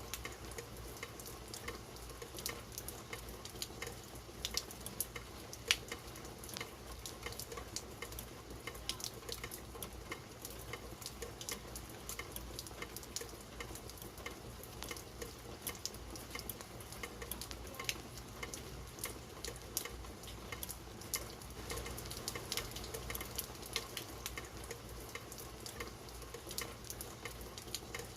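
Steady rain, an even hiss dotted with many irregular sharp ticks of drops striking close by.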